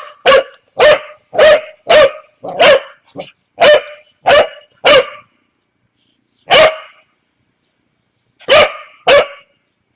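Pembroke Welsh Corgi puppy barking repeatedly: about nine sharp barks roughly every half second, then a pause and three more spaced barks near the end.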